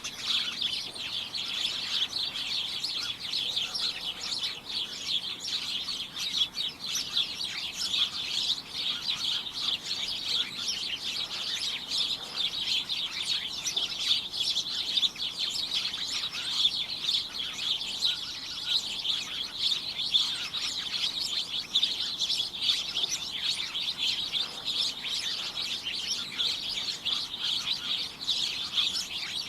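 A flock of small birds chirping together in a dense, continuous chorus of short, high chirps overlapping without pause.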